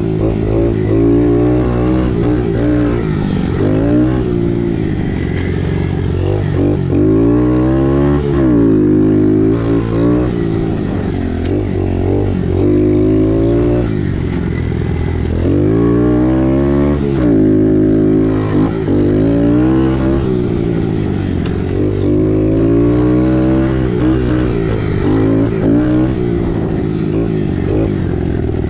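Dirt bike engine revving up and down over and over as it is ridden on a motocross track, the pitch climbing with each burst of throttle and falling off between, over a steady low engine drone.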